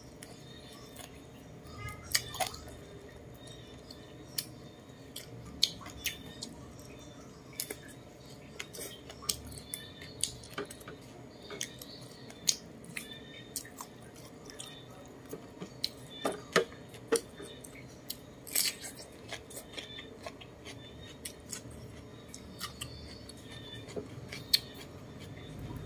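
Close-miked eating: chewing roast chicken with wet lip smacks and finger-licking, heard as irregular sharp mouth clicks. A handful of louder smacks come about two seconds in, around sixteen to nineteen seconds in, and near the end.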